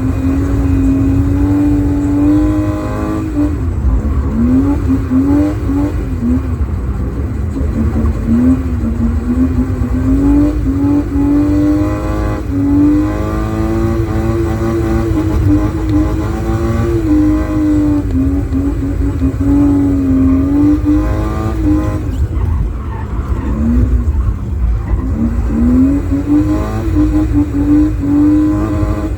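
BMW E36's 2.8-litre M52TU straight-six with an M50B20 intake manifold, its loud induction noise rising and falling in pitch again and again as the engine is revved hard and lifted off through a run of corners.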